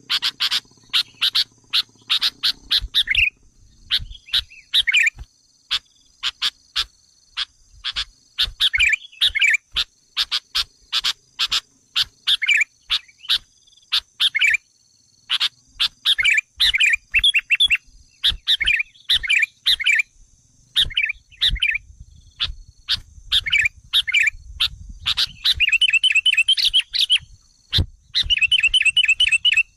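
Sooty-headed bulbul lure calls: a dense run of sharp, rapid call notes broken by short warbling phrases, with a longer fluttering phrase near the end. This is an excited, aggressive bulbul call track used to provoke wild bulbuls. A faint steady high whine sits behind it.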